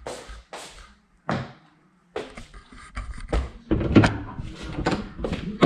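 Household handling noises: a few separate knocks, like cupboard doors or objects being set down, then a busier run of clattering from about two seconds in.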